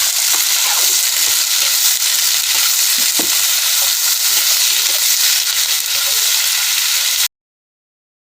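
Chopped onions sizzling in hot mustard oil in a kadhai, a steady frying hiss that cuts off abruptly to dead silence near the end.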